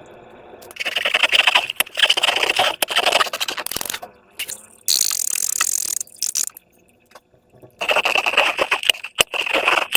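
Sticky slime being squished and pulled by hand, giving dense wet crackling in two spells. A short hissing rush comes about five seconds in.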